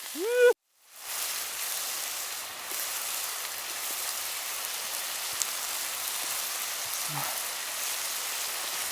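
Jingisukan lamb and vegetables frying over a campfire: a steady sizzle after an edit cut. Just before the cut there is a short, voiced exclamation.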